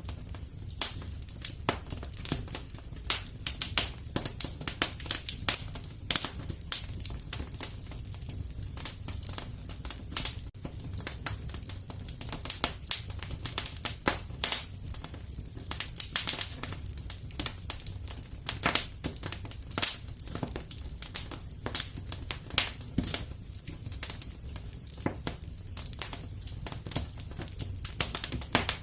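Wood fire crackling in a fireplace: a low steady rumble of flames under frequent irregular pops and snaps.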